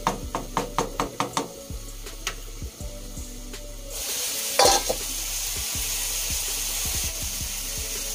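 A rapid run of about eight taps on the pan in the first second and a half, then from about four seconds in a steady sizzling hiss of the broccoli-and-potato curry cooking in the kadai, with one louder knock just after the hiss starts.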